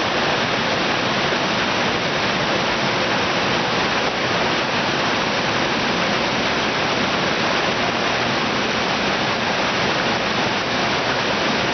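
Steady, loud rush of white water on river rapids.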